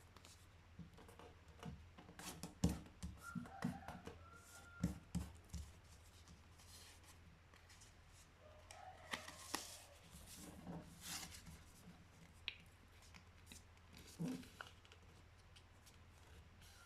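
A sheet of printer paper being handled, folded and creased by hand: scattered soft rustles and sharp little crease taps, over a faint steady low hum.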